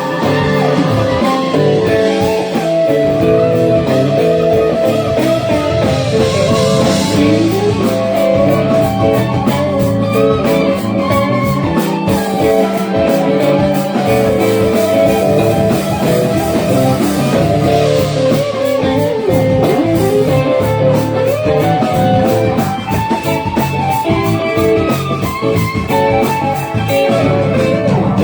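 A band playing blues-rock, with electric guitar over bass guitar and a steady beat.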